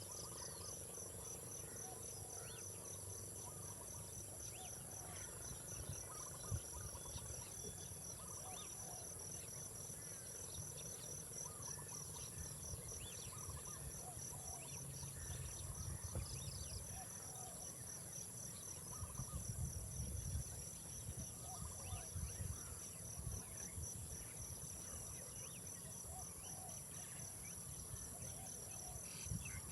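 Crickets and other insects chirring steadily, a high trill pulsing at an even rate over a second steady high tone, with a low rumble that swells now and then.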